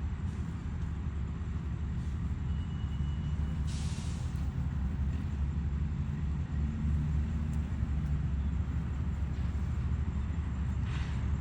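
Steady low rumble of a running engine, with a short hiss about four seconds in and another near the end.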